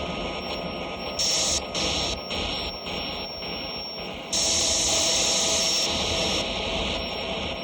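Live harsh noise performance: a dense wall of electronic static with a steady high whistle. Bright high hiss cuts in and out abruptly, for a moment about a second in and again for a couple of seconds past the middle.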